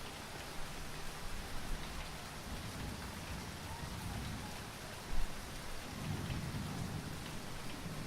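Steady rainfall, heavy and even, falling on surfaces. A short low thump comes about five seconds in, then a low rumble of distant thunder swells for a couple of seconds.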